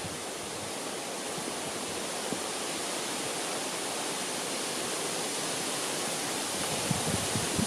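Wind rushing through the trees, a steady even hiss of leaves and branches that swells slightly near the end.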